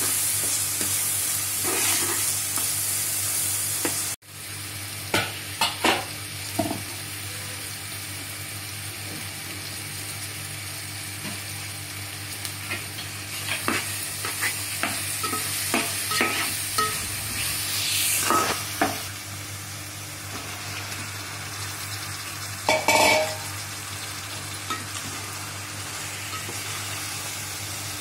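Spice paste frying with a steady sizzle in a metal pot while a metal ladle stirs and scrapes it, with scattered clicks of the ladle on the pot. One louder, ringing clink comes near the end.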